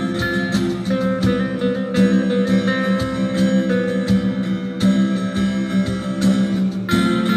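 Band playing an instrumental passage of a song, led by guitar over a steady beat.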